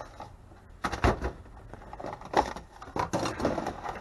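Loose screws and metal parts clattering and knocking as a microwave is taken apart by hand, in several short bursts with the loudest about a second in.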